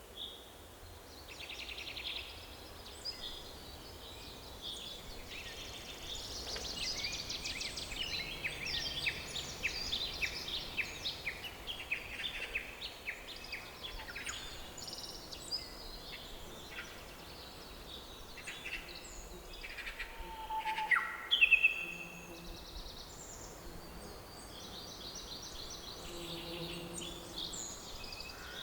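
Several songbirds chirping and singing, with rapid trills and short calls overlapping; a louder burst of calls about two-thirds of the way through, over a faint steady background hiss.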